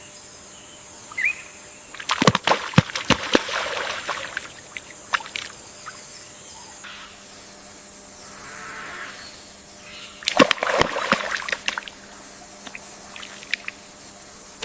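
Water splashing and sloshing in two bursts, the first about two seconds in and lasting a couple of seconds, the second around ten seconds in, over a steady quiet background. A brief high chirp about a second in.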